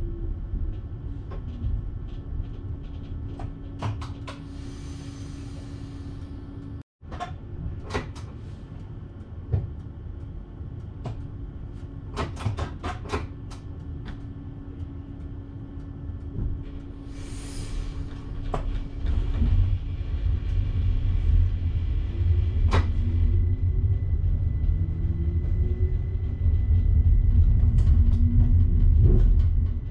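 Electric passenger train heard from the driver's cab: a steady running rumble and hum with scattered clicks of the wheels on the track and two short bursts of hiss. About two-thirds of the way through, the rumble grows louder and several tones rise in pitch as the train accelerates.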